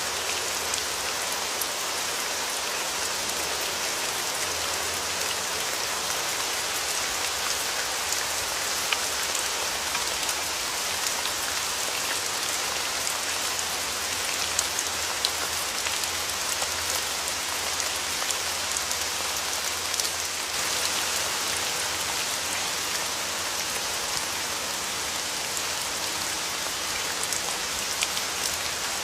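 Rain falling steadily, an even hiss with scattered sharp ticks of single drops hitting.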